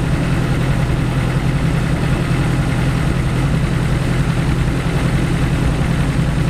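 BAC Mono's four-cylinder engine idling steadily.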